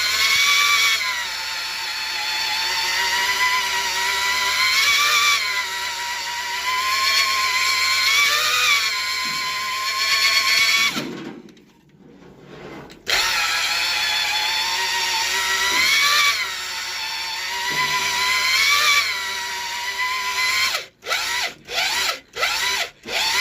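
Electric drill driving a cylinder hone in an engine block sleeve, running with a whine that rises and falls in pitch. It stops about eleven seconds in, starts again about two seconds later, and near the end is switched on and off in several short bursts.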